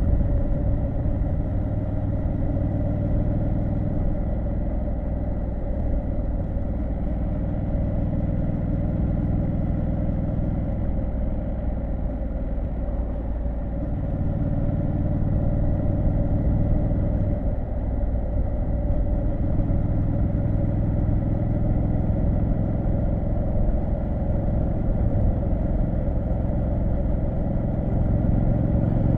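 Triumph Street Scrambler 900's 900 cc parallel-twin engine running steadily under way, its pitch easing up and down a little a few times.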